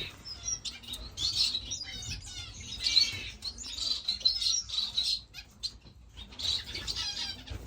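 Several caged finches chirping at once: many short, high overlapping tweets and calls, with a brief lull about five and a half seconds in.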